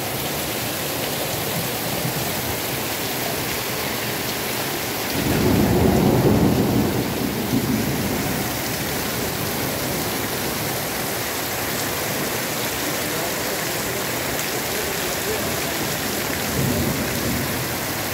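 Heavy rain falling steadily. About five seconds in, a low roll of thunder swells and fades over about three seconds, with a fainter rumble near the end.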